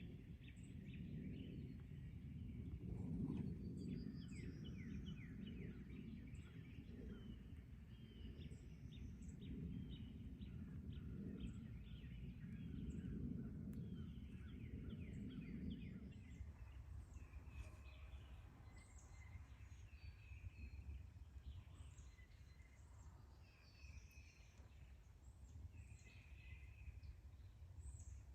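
Songbirds singing: rapid trills and short rising chirps from several birds, over a low rumbling noise that falls away about halfway through.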